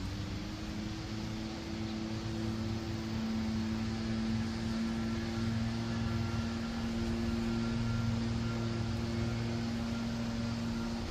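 A steady machine drone with two held low tones, coming in at the start with a slight rise in pitch, over an even background hiss.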